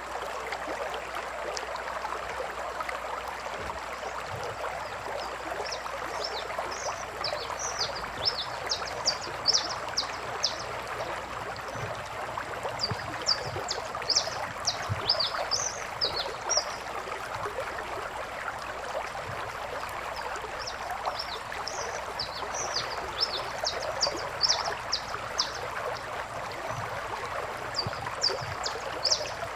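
Steady rushing of flowing river water, with bursts of short, high chirping animal calls that come in clusters every several seconds.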